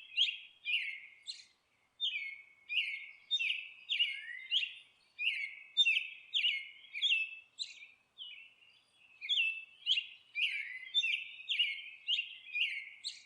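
Bird chirping: a steady run of short chirps, each sliding down in pitch, about two a second, with a short pause about eight seconds in.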